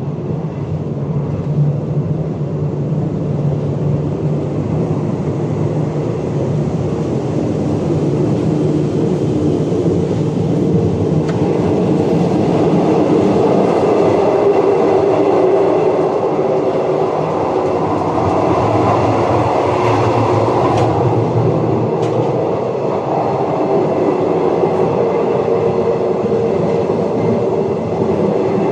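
Train running along the track: a steady rumble with a hum, growing louder over the first several seconds and then holding.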